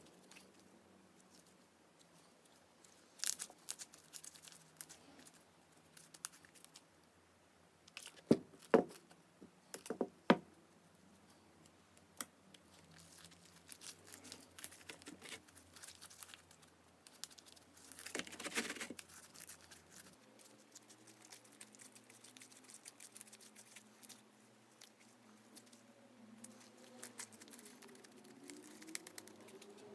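Sticky clear slime being stretched and squeezed by hand, giving off small crackles and tearing sounds, with a few sharper pops about eight to ten seconds in and a longer crackling stretch around eighteen seconds.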